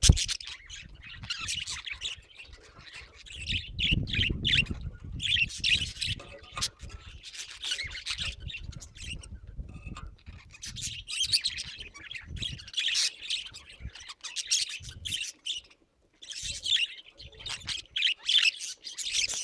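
Pet budgerigars chattering and squawking in quick scratchy bursts, with a short pause about three quarters of the way through. A low rumbling noise sits under the chatter for several seconds in the middle.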